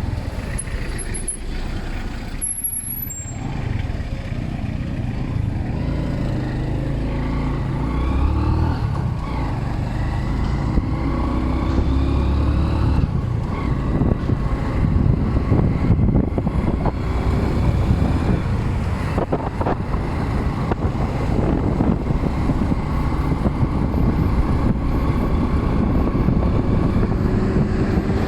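Motorcycle taxi engine running under way through traffic, its pitch rising and falling several times with the throttle.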